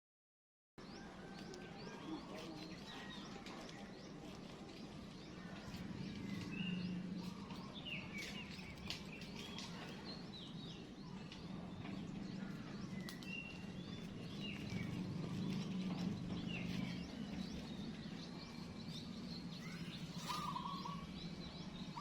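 Birds chirping and calling in short, scattered notes over a steady low hum that swells and fades, beginning after a moment of silence.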